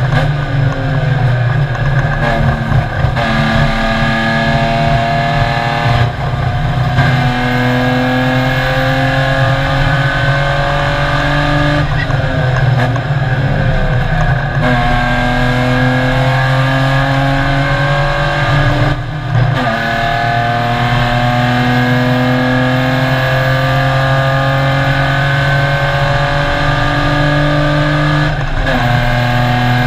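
BMW race car engine heard from inside the stripped, caged cabin, pulling hard with its pitch climbing again and again. Each climb breaks off briefly at a gear change, roughly every five to eight seconds. About twelve seconds in, the revs fall and jumble for a couple of seconds as the car slows for a corner, then it pulls up through the gears again.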